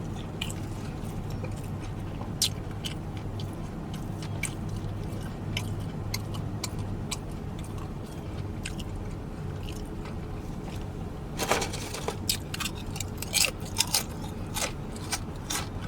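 A person chewing food close to the microphone, with wet smacks and mouth clicks, denser and louder about eleven to thirteen seconds in, over a steady low hum.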